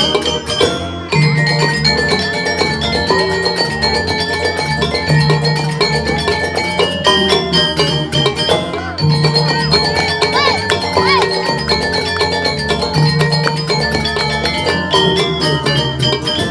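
Balinese gamelan music: metallophones ringing on steady pitched notes over a low bass tone that keeps recurring.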